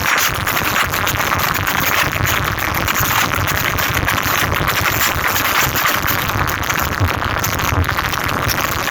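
Car-audio sound systems blasting electronic music in a head-to-head sound battle, so loud that the music smears into a distorted wash of noise over a pulsing bass.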